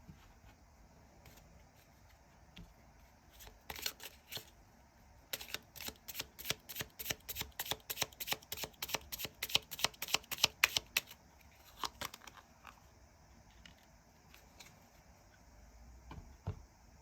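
Tarot cards being shuffled by hand: a quick run of crisp card snaps, several a second, for about six seconds in the middle, with a few scattered handling clicks before and after.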